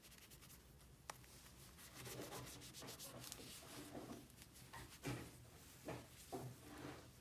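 Faint rubbing and scraping, with a few light clicks and taps scattered through it.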